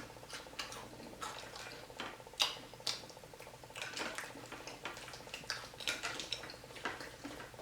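A person chewing crispy fried croaker fish close to the microphone: irregular crunches and wet mouth clicks.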